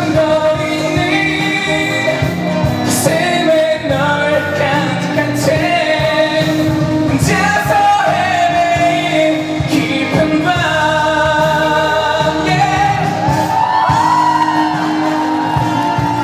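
Live pop ballad: a male singer holds long notes over band accompaniment, with the song at full volume throughout.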